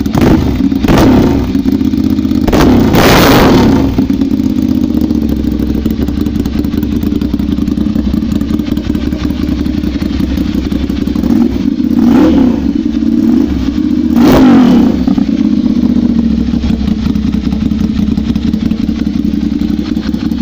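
Motorcycle engine running steadily, swelling louder four times: twice in the first few seconds and twice more past the middle.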